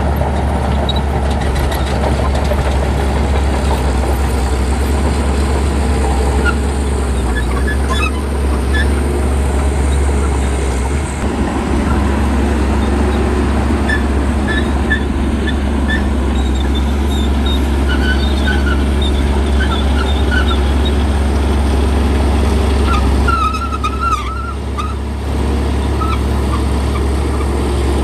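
Heavy diesel earthmoving machinery running: a steady low engine rumble, with scattered short high chirps on top.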